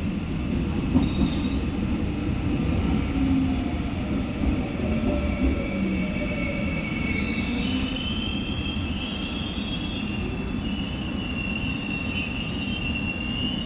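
Seoul Subway Line 4 electric train running, a steady low rumble of wheels and running gear. From about six seconds in, high wavering wheel squeal rises above it.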